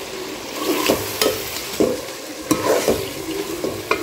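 Chicken masala sizzling and frying in a steel pot while a steel ladle stirs it, scraping and knocking against the pot in a run of sharp strokes at uneven intervals.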